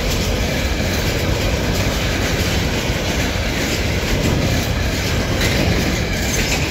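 Freight train of container flat wagons rolling past close by: a steady, loud rumble of steel wheels on rail, with repeated clicks as the wheels cross rail joints.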